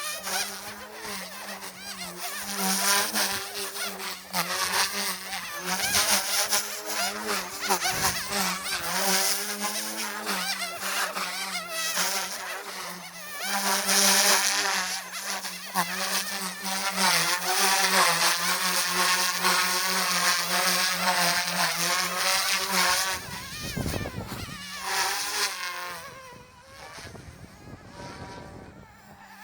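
Goosky S2 micro RC helicopter in flight: its electric motors and rotor blades make a steady buzzing whine whose pitch wavers up and down with throttle. The steady hum stops about 23 seconds in, followed by a brief rush of noise and then quieter sound.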